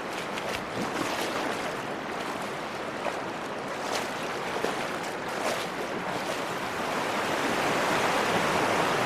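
Virgin River water rushing through a slot canyon, with scattered splashes from feet wading through it. The water noise grows louder and steadier near the end.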